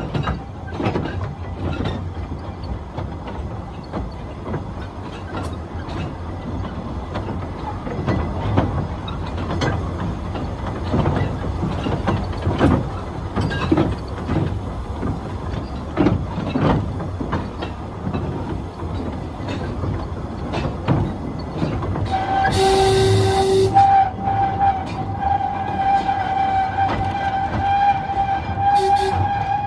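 Narrow-gauge quarry train running, heard from the carriage behind a Hunslet 50 hp 0-4-0 diesel locomotive: a steady rumble with irregular clicks of the wheels over the rail joints. About two thirds through, a steady high whine sets in, and a horn blast sounds for about a second, then briefly again near the end.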